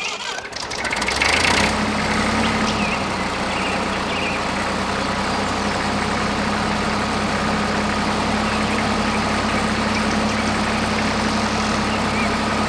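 A motor running steadily with an even hum, coming up about a second in and holding at a constant speed.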